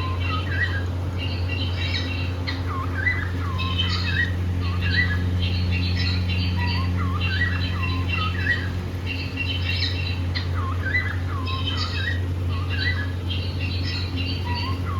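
Cockatiels chirping and calling: short chirps that swoop up and down in pitch, repeated every second or so, over a steady low hum.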